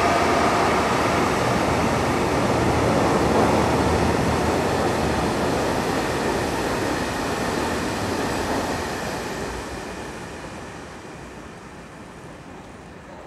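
Freight train of covered wagons and tank wagons rolling past at speed: a steady, loud noise of wheels on rail that fades away over the last few seconds as the end of the train passes.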